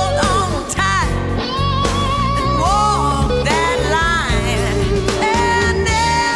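Blues-rock band playing an instrumental break: a lead guitar solo with bent, wavering notes over bass and drums.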